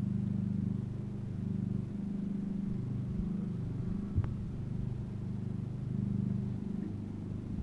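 Steady low engine hum that swells and eases slightly every second or two, with a single sharp click about four seconds in.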